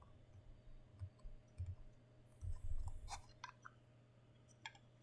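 Handling noise from a plastic figurine and its small parts: light clicks and knocks, dull thumps, and a brief rustle about two and a half seconds in.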